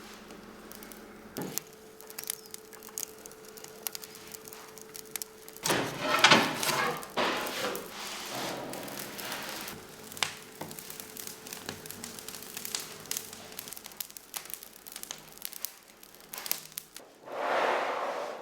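Bakery work sounds while bread dough is handled: scattered knocks and thuds of dough, tools and wooden boards, with a louder rush of noise about six seconds in and another near the end.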